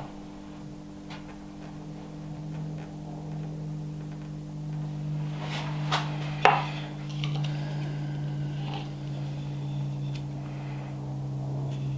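Small knocks and clatter of wood and hard objects being handled, with two sharper knocks about six seconds in, over a steady low hum.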